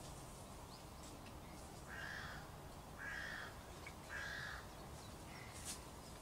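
A bird calling with three harsh caws, about a second apart, over a faint outdoor background.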